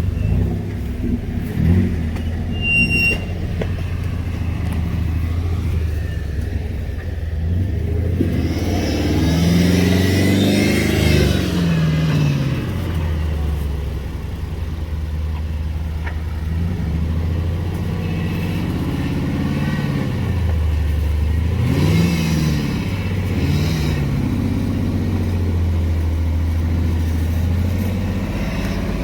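Off-road rig's engine running at low revs, with the revs rising and falling twice, about ten seconds in and again a little after twenty seconds.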